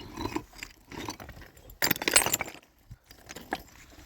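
Irregular clinks, knocks and rattles of hard objects being handled or set down, the loudest about two seconds in.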